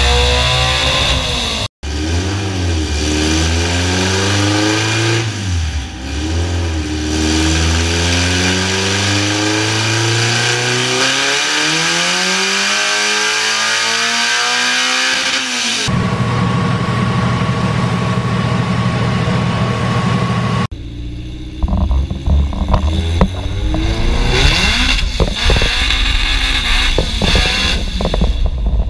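Honda B20-based four-cylinder with a P8R head and Crower 404 cams, revving through a full-throttle pull on a chassis dyno, its pitch climbing steadily for about ten seconds before cutting off. It is followed by shorter clips of the engine running and revving in bursts.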